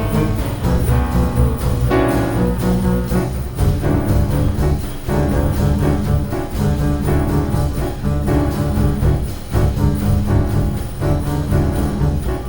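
Improvised jazz from a piano trio: double bass busy in the low register, piano, and drums with frequent cymbal and drum strokes, playing densely without a break.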